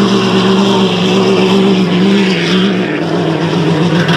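Diesel pickup truck engine running hard at high revs while pulling the sled, its pitch dropping slightly about two-thirds of the way through.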